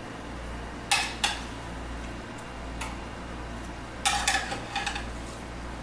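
Metal cookware and utensils clinking and knocking as chicken pieces are turned over on a cooking tray: two knocks about a second in, one near the middle, then a quick run of clatters near the end, over a low steady hum.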